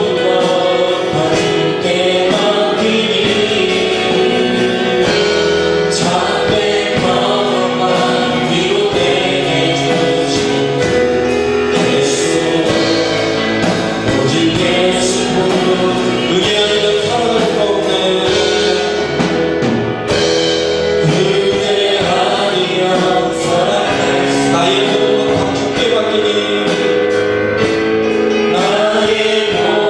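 Church praise band and congregation singing a gospel worship song together, with drums keeping a steady beat.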